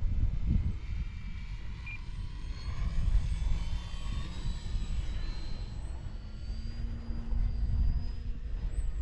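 Electric motor and propeller of an E-flite Valiant 1.3M RC plane whining in flight, the pitch sliding as it passes, over a loud low rumble of wind on the microphone.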